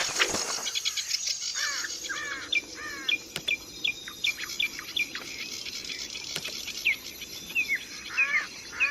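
Horsfield's babbler (pelanduk semak) singing: a quick series of short, sharply down-slurred whistled notes, repeated again and again, over a steady high insect buzz.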